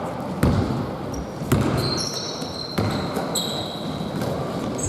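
A basketball being dribbled on an indoor court: three bounces about a second apart. In the second half come short, high squeaks, likely sneakers on the court floor.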